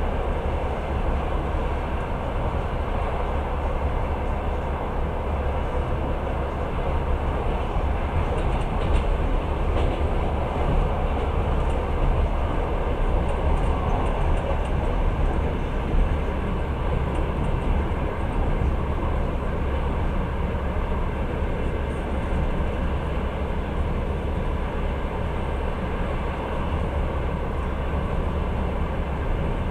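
Passenger train running steadily, heard from inside the carriage: a continuous rumble of wheels on track, with a few light clicks near the middle.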